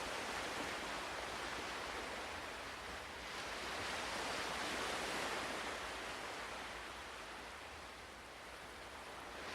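Ocean waves washing ashore: a steady hiss of surf that swells about halfway through and then eases off.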